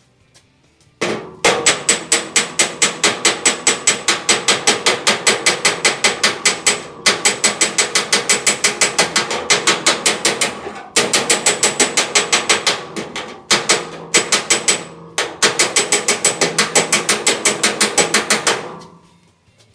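Rapid, even hammer blows on a steel truck-bed wheel-arch panel, about nine a second with a metallic ring, working a low area flat. The blows come in five long runs separated by brief pauses.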